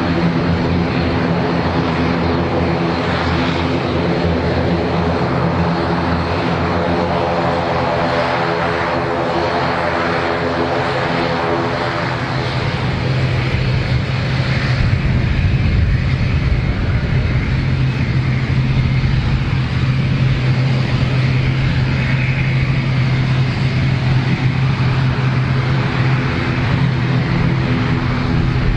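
ATR 72-500 landing, its two turboprop engines and propellers giving a steady droning hum made of several tones. About halfway through the pitch of the drone changes and it grows louder and rougher.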